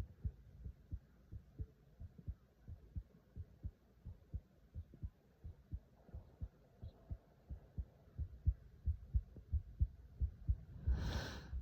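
Faint, soft low thumps in a steady pulse of about two a second, coming faster in the last few seconds, with a short rush of noise near the end.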